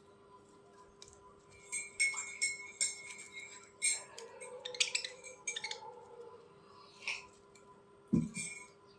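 Budgerigars chirping and chattering in short, irregular bursts with a few sharp clicks, and a dull knock near the end.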